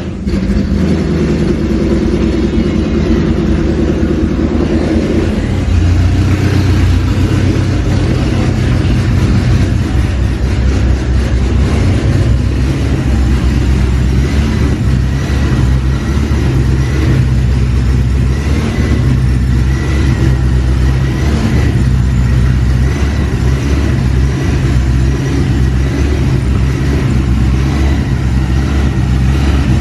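The Shelby GT500's built supercharged 5.8L V8 running just after starting. It holds a raised idle for about five seconds, then drops into a lower, steady idle.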